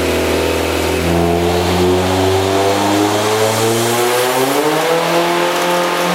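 Turbocharged 2.5-litre MZR four-cylinder of a Mazda MX-5 under load on a chassis dyno, its note climbing steadily in pitch as the revs rise. About four seconds in the pitch briefly steps down, then rises again.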